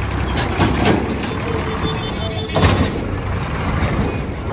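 Tractor engine running with a steady low rumble, with a few sharp knocks about half a second, one second and two and a half seconds in.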